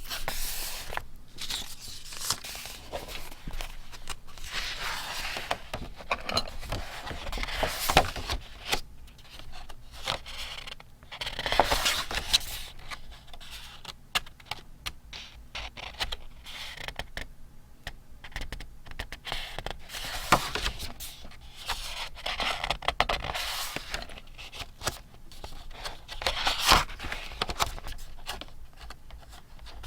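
Paper being handled for scrapbooking: sheets scraped, rustled and crinkled in irregular strokes, with a few sharper, louder crackles.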